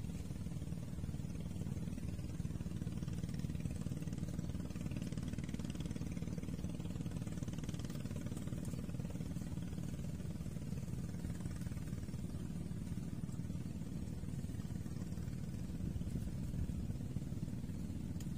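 A motor running steadily, a low hum that holds one pitch without revving.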